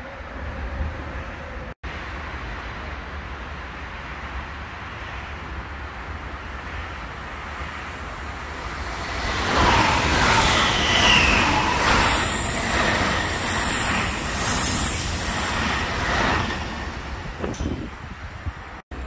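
Frecciarossa 1000 high-speed electric train passing through the station without stopping. Its rumble builds for several seconds, then comes a loud rush of wheels on rail lasting about seven seconds as the carriages go by, with high-pitched whines pulsing on top. It fades quickly once the train has passed.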